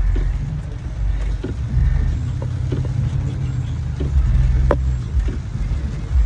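Low, steady rumble inside a Cadillac Escalade's cabin as it rolls to a stop, with a few scattered sharp taps.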